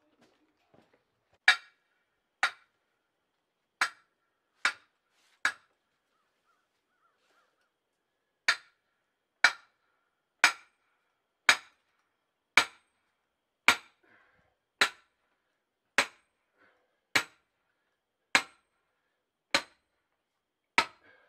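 Hammer blows driving nails into the wooden ramp, each strike sharp with a short ring: five blows about a second apart, a pause of about three seconds, then twelve more at a steady pace of about one a second.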